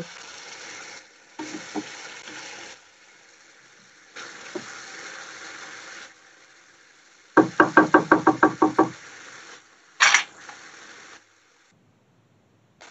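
Masala paste frying in oil in a nonstick pan, a sizzling hiss that comes and goes as it is stirred with a wooden spatula, the stage where the oil starts to separate from the masala. About seven and a half seconds in, a quick run of about ten knocks, then a brief sharp scrape, and the sound stops about eleven seconds in.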